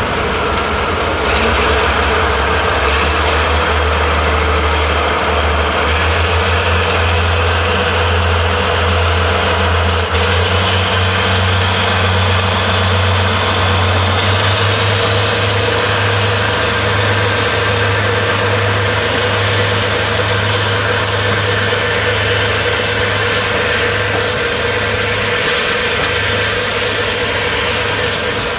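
DD51 diesel-hydraulic locomotive's engines running hard under load, with a deep steady drone that steps up in pitch about halfway through and a high whine that rises slowly throughout.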